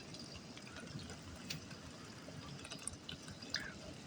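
Heavy rain heard from inside the house: a faint steady hiss of rainfall with scattered drips and splatters.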